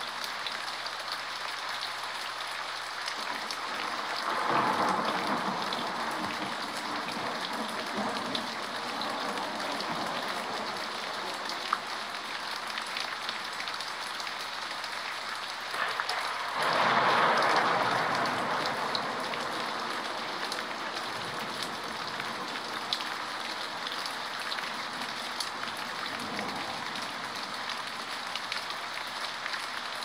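Steady rain with sharp drops, swelling twice, about four seconds in and again past sixteen seconds, with a low rumble of distant thunder that fades over a few seconds each time.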